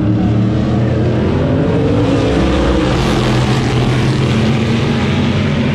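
Race cars passing on the track, engines running at high revs. The engine note climbs in pitch over the first couple of seconds and is loudest as the cars go by about three seconds in.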